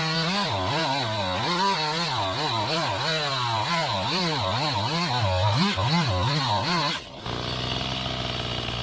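Two-stroke chainsaw engine revving up and down about twice a second, then dropping abruptly to a steady idle about seven seconds in.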